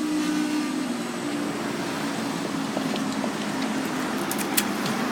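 Class 455 electric train running through the crossing with a steady hum and an even hiss, the hum slowly fading, and a few faint ticks about four and a half seconds in.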